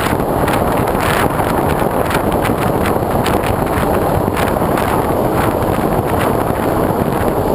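Wind rushing over the microphone of a GoPro mounted on the wing of a foam RC plane in flight: a loud, steady rush with frequent short crackles from buffeting.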